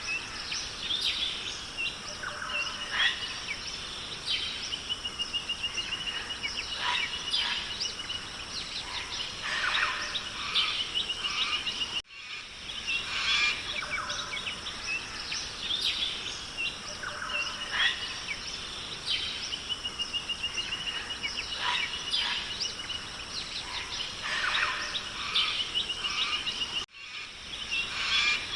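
Rainforest soundscape of many birds calling and chirping, including a fast trill, over a steady high hiss. It is a looped recording that restarts twice with a brief dip in level.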